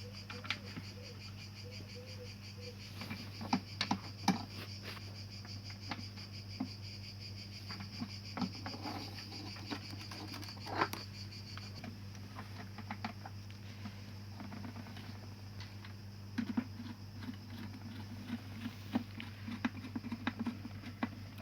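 Scattered light clicks and taps of small parts and tools being handled while a washing-machine door lock is fitted, over a steady low electrical hum and a steady high insect trill.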